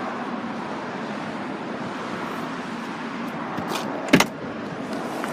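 Steady outdoor background noise, then a light click and a sharp, loud thump about four seconds in: the Mercedes-Benz B200's tailgate latch being worked to open the boot.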